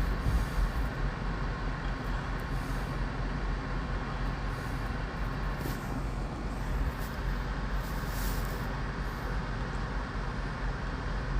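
Steady low rumble of vehicle engines running, with even outdoor background noise.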